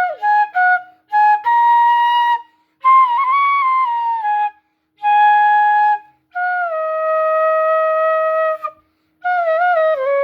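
Flute playing a melody in several short phrases with brief pauses between them, with ornamented, bending notes. The tone is clean and free of breathy hiss: the corrected way of blowing.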